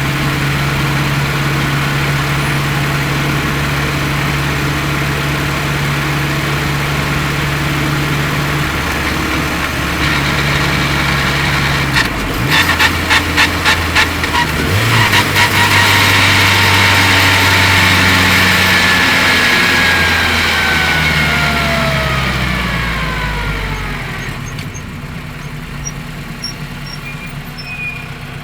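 Turbocharged Honda K20 inline-four running under way, heard from inside the engine bay; about halfway through comes a short run of rapid pulses, then a high whine that falls steadily in pitch for several seconds as the car slows. Near the end it settles to a quieter, steady engine note.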